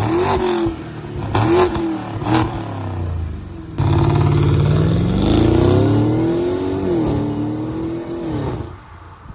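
BMW X5 50i's twin-turbo V8, fitted with downpipes and a full valved exhaust, being revved: a few quick throttle blips, then a longer rev that climbs for about three seconds, holds, and falls back toward idle near the end.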